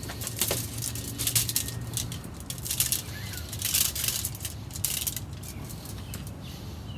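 Handling noise: irregular rustling and crackling with a few light knocks as a raw whole chicken on a metal roasting stand is handled.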